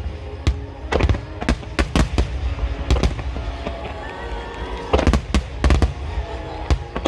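Large aerial fireworks shells bursting, with sharp bangs coming in clusters several times a second and low rumbling between them. Music plays underneath.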